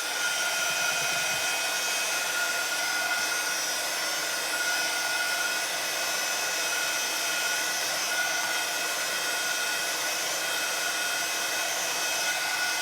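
Handheld hot-air dryer blowing steadily with a constant high whine, drying wet ink on paper.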